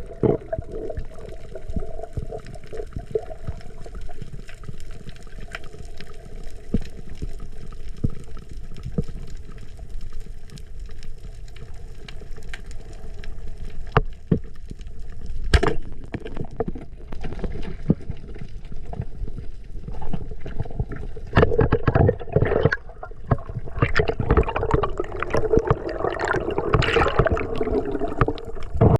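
Water gurgling and rushing, as heard on an underwater camera, with scattered sharp clicks and knocks that grow busier in the last third.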